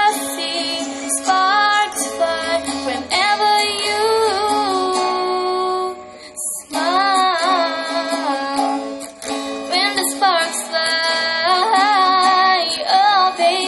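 A female voice singing long, held notes with few or no clear words, over plucked-string accompaniment. The music drops away briefly about six and a half seconds in, then the singing resumes.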